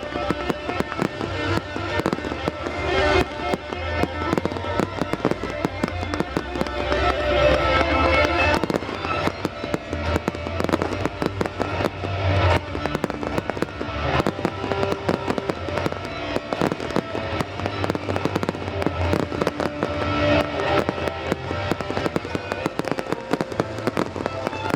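Fireworks display: many sharp bangs and crackles of shells bursting in quick succession, over loud music played for the show.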